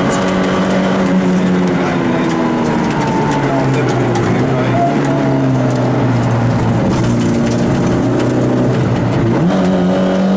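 Peugeot 106 rally car's engine heard from inside the cabin. The revs drop about two seconds in, settle lower and hold steady, then climb quickly near the end.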